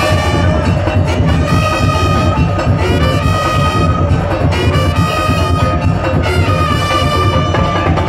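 Madurese daul (tong-tong) ensemble music: a horn-like melody of long held notes over a dense, heavy drum beat.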